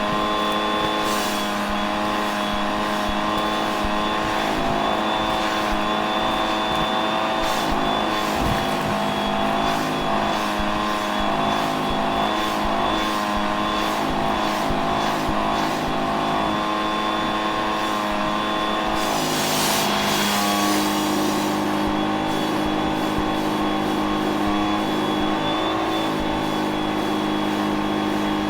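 Vacuum cleaner motor running steadily with a high whine. About two-thirds of the way through, its pitch shifts and there is a brief rush of hiss.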